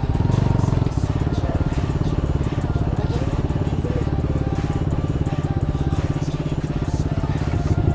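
Motorcycle engine running steadily at low revs, a fast, even exhaust beat with no revving.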